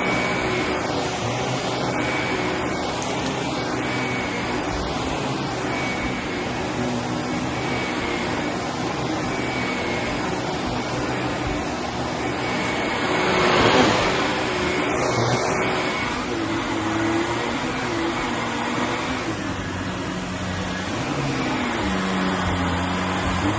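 Bissell Helix upright vacuum cleaner running over carpet, sucking up scattered Fruity Pebbles cereal. Its motor drones steadily with a faint whine, swelling louder briefly a little past halfway.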